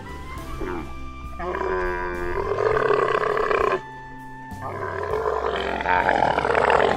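Dromedary camel calling twice, each call a long, rough bellow of two to three seconds, over steady background music.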